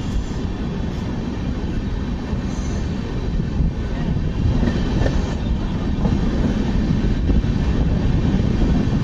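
Express passenger coach rolling out of a station, heard from the coach doorway: a steady low rumble of wheels on track that grows a little louder about halfway through as the train gathers speed.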